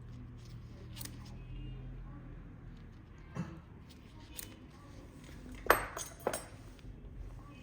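Toenail nippers cutting a toenail: a few light clicks, then two sharp snips close together near the end.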